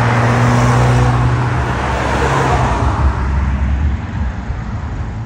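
A motor vehicle running, with a steady low engine hum under a loud rushing noise; the hum drops lower about a second in and the noise fades near the end.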